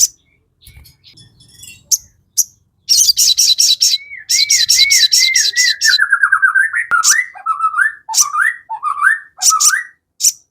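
Sogon (crested jay) calling: a long run of rapid dry rattling notes a few seconds in, with a chain of looping whistled notes beneath it, then a series of hooked whistles that dip and rise again.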